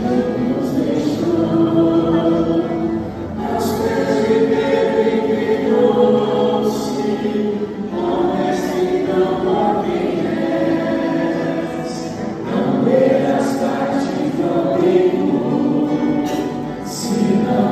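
A choir singing a church hymn in long held phrases, with short breaths between phrases about three, eight and twelve seconds in.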